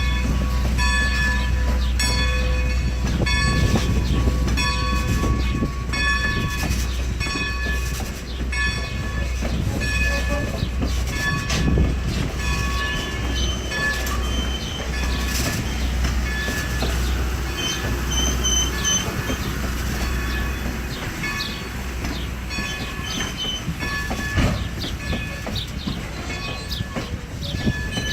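Strasburg Rail Road No. 90, a Baldwin 2-10-0 steam locomotive, arriving with its train. The wheels and cars make a steady low rumble and clicking throughout. A repeated metallic ring, the locomotive's bell, sounds over roughly the first half and thins out later.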